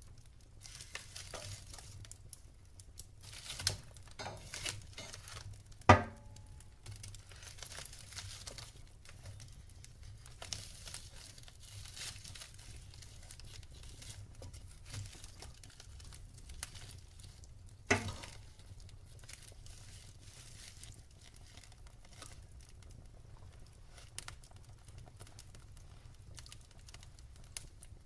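Wood fire burning in a fireplace, crackling with an irregular stream of small snaps and two loud, sharp pops, about six seconds in and again about eighteen seconds in.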